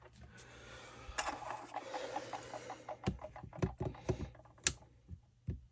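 A faint rapid ratcheting, then a handful of separate sharp plastic clicks. This fits a zip tie being pulled tight around a string trimmer's handle to hold the trigger parts in.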